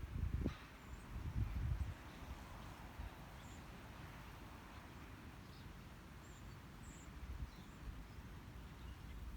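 Outdoor nature ambience: a steady hiss with a few brief, faint high bird chirps scattered through it. Low rumbling bumps come in the first two seconds and again near the end.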